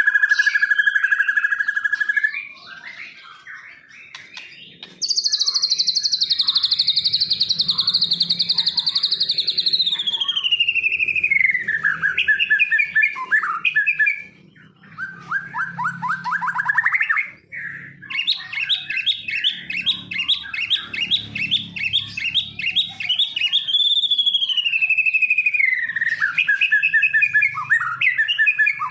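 Songbird singing a loud, varied song. It opens with a steady whistled note, then after a short pause comes a long fast trill sliding down in pitch, a quick rising run of notes, and a long stretch of rapid repeated notes ending in falling phrases.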